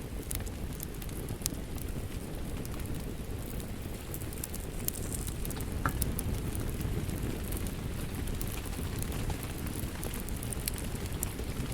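Wood fire crackling with sharp pops over a steady rain hiss.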